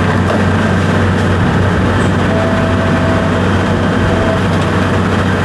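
A large engine running steadily with a loud, even, low drone.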